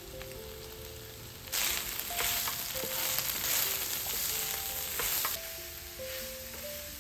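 Food sizzling in a hot pan, starting suddenly about a second and a half in and stopping after about four seconds, over soft background music.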